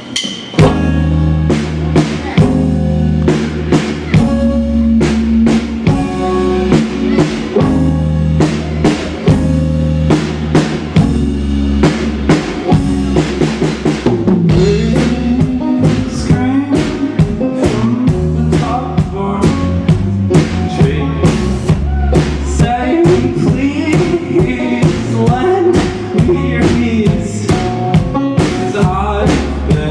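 Live rock band playing an instrumental passage: a drum kit keeps a steady beat with snare and bass drum over sustained bass notes.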